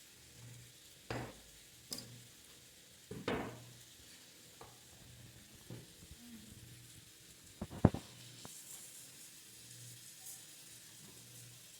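Steak sizzling faintly in a frying pan over a wood fire, with a handful of sharp clicks and knocks, the loudest a little before 8 seconds in.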